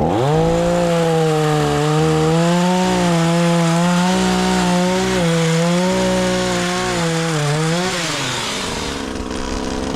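Chainsaw on a pole saw revving to full throttle as it starts, then running at high speed while it cuts into a tree branch, its pitch wavering slightly under the load. About eight seconds in the throttle is released and the engine winds down.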